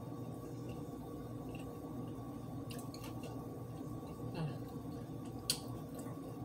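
Close-up chewing of a crispy chicken sandwich: soft wet mouth clicks and smacks, with a sharper click about five and a half seconds in, over a steady low background hum.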